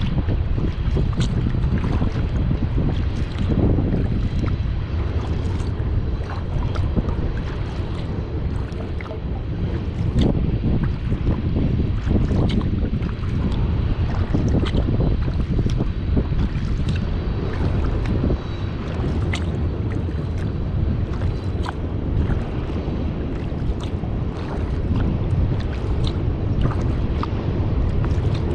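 Wind buffeting the microphone as a steady low rumble, with small splashes and drips from a kayak paddle scattered throughout.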